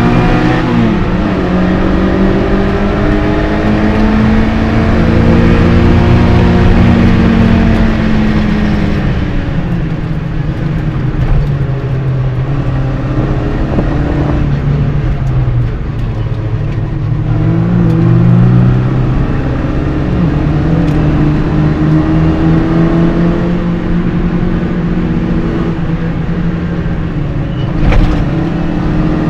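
An MG Midget race car's engine heard from inside the cockpit under hard racing use. It revs up in rising sweeps, drops in pitch as it shifts or lifts off, runs lower for a few seconds and then pulls up through the revs again. A single knock comes near the end.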